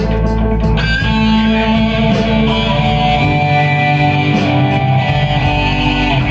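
Blues-rock band playing an instrumental passage: electric guitar holding long notes over the band, with drums ticking out a steady beat.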